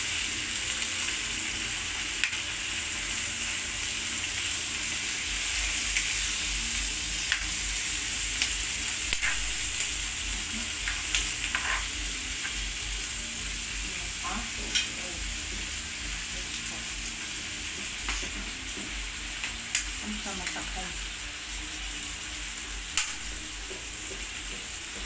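Squid sizzling in a hot wok over a gas flame while a utensil stirs and turns it, with short sharp clicks of the utensil against the pan every second or two.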